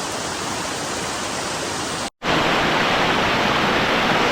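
Steady rushing of St. Mary's Falls, water pouring and splashing. About two seconds in it cuts out for an instant, then returns louder.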